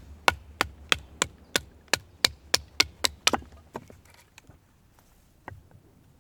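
A quick run of about a dozen sharp, even strikes, roughly three a second, then a few lighter knocks: repeated hammer-like blows of the kind made when driving tent pegs or splitting firewood at camp.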